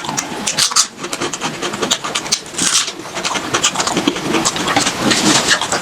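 Close-up eating sounds of pork being chewed: a dense, irregular run of wet clicks, smacks and crunches.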